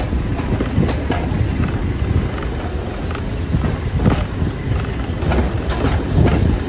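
Heritage train running along the line, heard from on board: a steady low rumble of wheels on track, with irregular clicks and knocks from the wheels over the rails.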